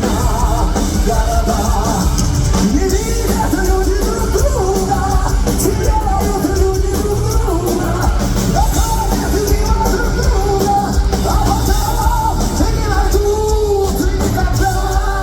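Metal band playing live: distorted guitars, drums and a sung melody, all continuous and loud.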